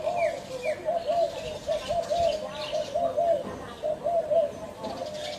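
Spotted doves cooing, a dense run of repeated low coo notes, with a few short, higher chirps near the start.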